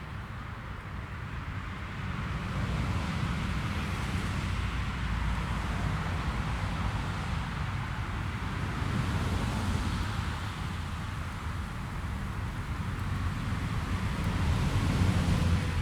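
Jet airliner engines rumbling at the runway, a steady noise that swells and eases, with wind on the microphone.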